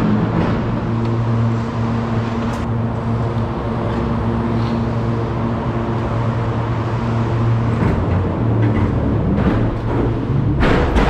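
Truck engine running at steady revs, with a couple of short knocks.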